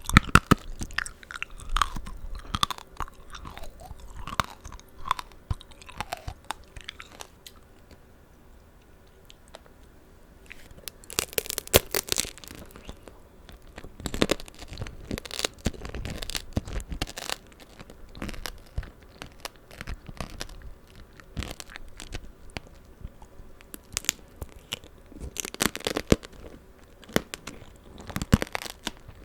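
Tanghulu being bitten and chewed close to the microphone: the hard candied-sugar shell cracks and crunches over juicy fruit. It comes in bursts, with a quieter pause about eight to eleven seconds in.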